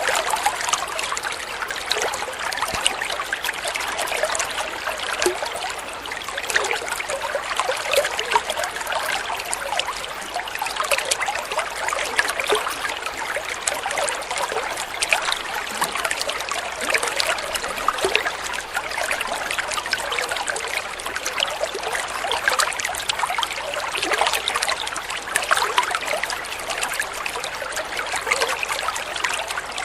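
Water flowing steadily and trickling, a dense continuous burble of small splashes like a small stream.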